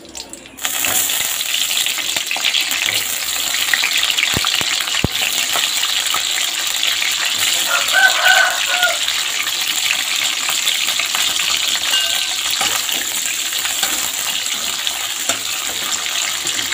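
Sambal ingredients (chilies, tomato, garlic and shallots) frying in hot oil in a wok: a steady, crackling sizzle that starts suddenly about half a second in as they go into the oil.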